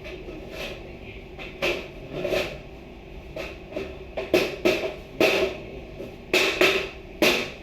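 A string of irregular sharp knocks and bangs, about ten of them, each with a short ring, coming closer together and louder in the second half.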